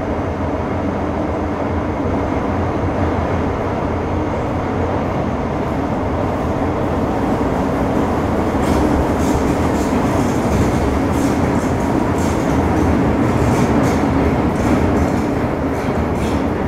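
Inside an MTR Metro Cammell M-Train (CM-Stock) electric multiple unit running between stations: a steady rumble of wheels on rail with car-body noise, and faint thin high tones. From about halfway, a hissing, ticking rail noise grows more prominent.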